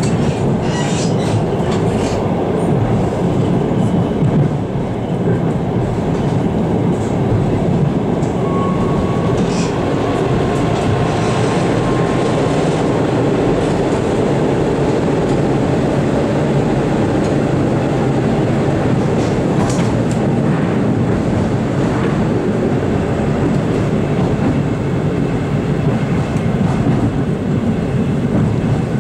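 A passenger train running at speed, heard from inside the carriage: a steady rumble and hiss of wheels on the rails, with a few sharper knocks. A faint short whine comes about nine seconds in.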